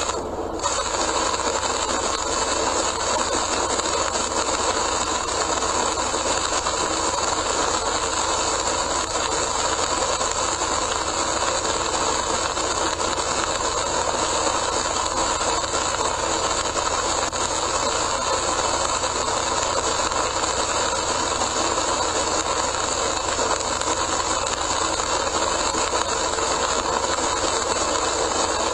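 Steady noise of a car driving at speed on a rain-soaked expressway, heard from inside the cabin: wet tyre spray and rain mixed with low road and engine hum.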